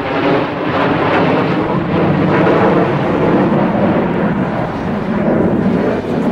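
Jet aircraft engines passing in a flyby: a loud, steady, rough rumble that builds to its peak around the middle.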